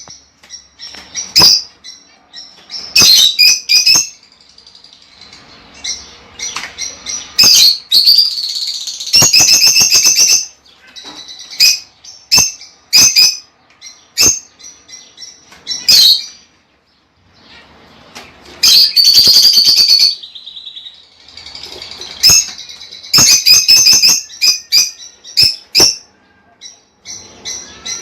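Lovebirds calling: sharp, high-pitched chirps in quick bursts, with longer runs of rapid chattering about eight to ten seconds in and again around nineteen seconds.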